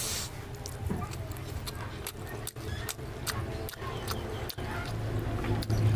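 Close-miked mouth sounds of a man chewing a bite of fried fish: a quick run of wet smacks and crunchy clicks, over a steady low hum that grows louder near the end.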